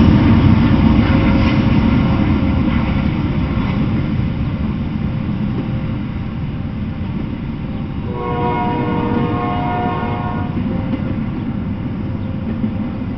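Double-stack intermodal freight train rolling past, a loud steady rumble of wheels on rail that slowly fades. About eight seconds in, a train horn sounds one chord for about two and a half seconds.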